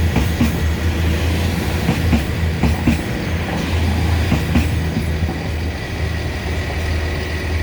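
A passenger train rolling slowly through the station: a steady low hum with irregular clicks and knocks from the wheels passing over rail joints and points.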